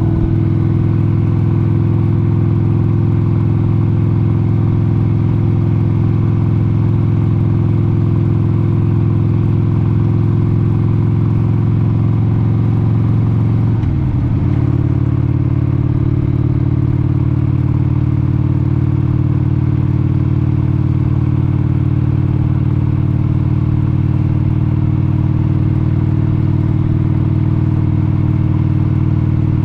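1996 Harley-Davidson XLH883 Sportster's air-cooled 883 cc V-twin running steadily under way at cruising speed. Its note dips briefly about halfway through, then settles back into a steady run.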